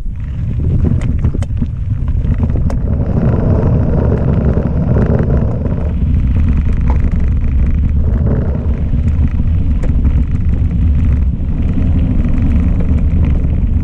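Wind buffeting the microphone of a camera on a mountain bike riding a gravel track, with tyre rumble on the gravel and a few sharp ticks from stones or the bike.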